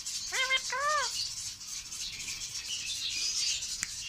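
A pet parrot giving two short clear calls, the first rising and the second rising then falling, followed by softer high chatter and a few sharp clicks.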